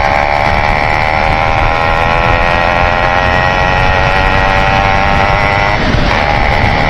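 Yamaha RX135 two-stroke single-cylinder engine, fitted with an aftermarket muffler, running at a steady high engine speed while the bike is ridden, with wind rumble on the microphone. The steady exhaust note breaks briefly about six seconds in, then resumes.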